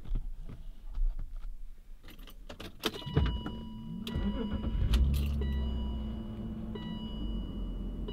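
Key clicking in the ignition, then a BMW E39 530i's straight-six cranks and fires about five seconds in, settling into a steady idle.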